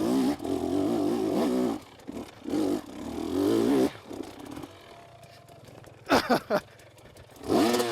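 Two-stroke KTM 250SX dirt bike engine revving hard under load on a steep hill climb, its pitch wavering with the throttle. About four seconds in it drops away to a low level, then picks up again near the end as the rider recovers on the climb.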